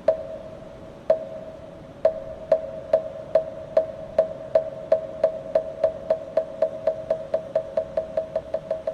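Moktak, the Korean wooden fish of Buddhist temples, struck with its mallet: each stroke gives a hollow wooden knock with a short ring. Three slow strokes about a second apart speed up into a quickening roll that grows gradually softer.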